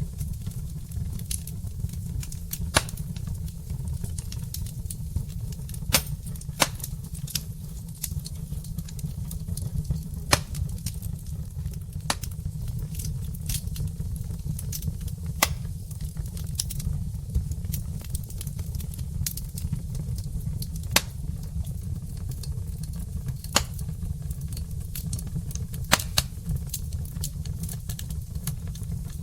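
Logs burning in a fireplace: irregular sharp crackles and pops, a dozen or so of them louder, over a steady low rumble.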